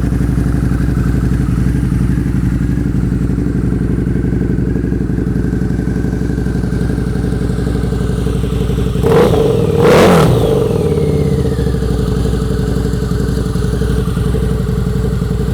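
2012 Harley-Davidson Night Rod Special's 1250 cc liquid-cooled V-twin idling steadily through aftermarket TAB Performance mufflers. The throttle is blipped twice, about nine and ten seconds in, the second rev louder, and each time the engine falls back to idle.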